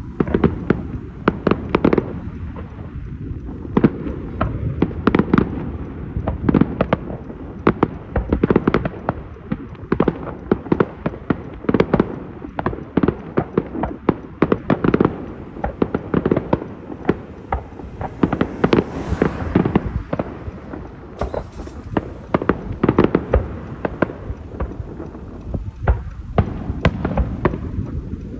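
Aerial fireworks bursting in rapid, overlapping succession: many sharp bangs and crackles a second, with booming rumble between them.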